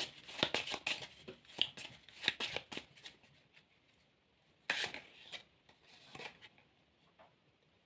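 Tarot cards being shuffled by hand: a quick run of crisp card flicks for about three seconds, then a short louder shuffle about five seconds in and a few soft card taps after.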